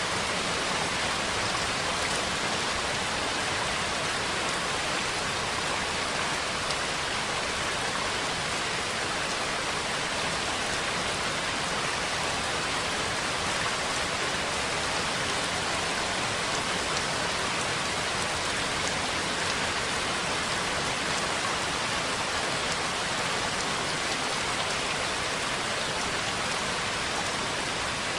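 Steady rain: an even, unbroken hiss of many drops falling, with no thunder or gusts.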